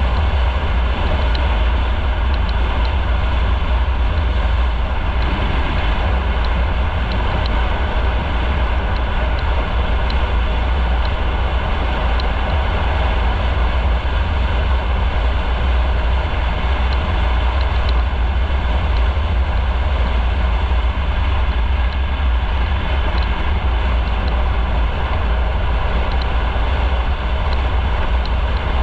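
Steady wind rush and rumble of a motorcycle under way, heard on a camera mounted on the moving bike, with its engine and road noise running underneath.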